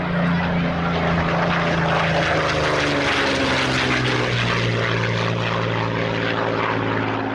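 Piston-engined propeller aircraft flying past, its engine note dropping in pitch about halfway through as it passes.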